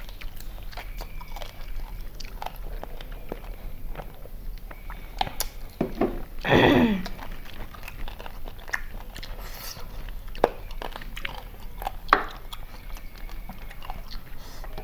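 Close-up eating of chicken biryani: chewing, lip smacks and crunching in many short irregular clicks. About six and a half seconds in, a short, loud sound with a falling pitch, like a brief voice or call, stands out above the eating.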